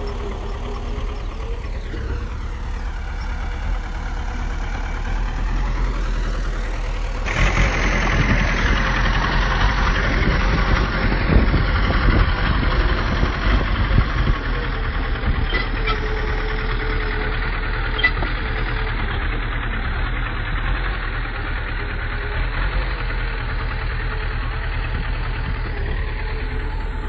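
Bulldozer's diesel engine running, turning louder and harsher about seven seconds in as it takes load, with a couple of sharp clicks later on.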